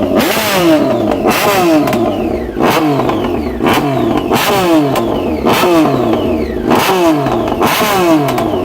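2010 Triumph Street Triple R's 675 cc inline-three engine, running with no mufflers, revved loudly in quick throttle blips about once a second, the revs dropping back after each blip.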